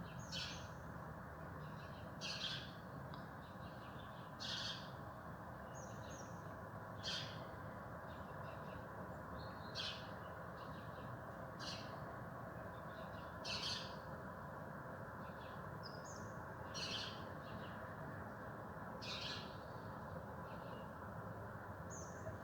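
Birds calling on a morning outdoors: short, high calls repeated about every two seconds, about ten in all, over a steady low background hum.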